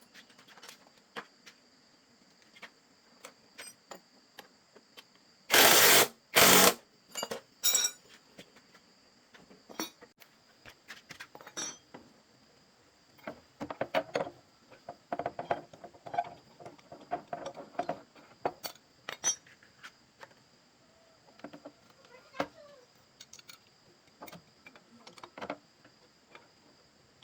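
Hand tools and metal parts clinking and knocking during repair work, with two short, loud hissing bursts about six seconds in.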